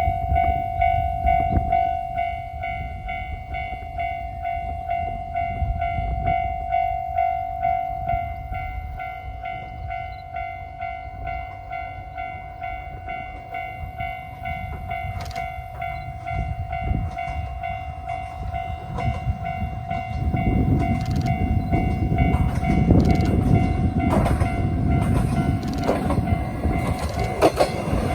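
A level-crossing bell rings steadily and rapidly while an Isumi Railway diesel railcar approaches. From about twenty seconds in, the railcar's engine rumble and wheel clatter swell as it passes.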